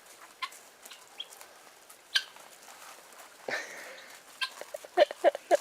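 Domestic fowl clucking: scattered short clucks, then a quick run of clucks near the end.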